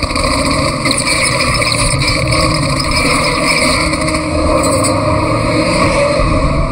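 Vintage saloon car driving, its engine running steadily.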